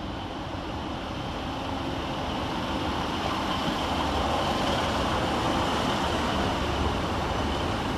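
Class 150 Sprinter diesel multiple unit running through the station, its engine and rumble building gradually to a peak about halfway through, then easing slightly near the end.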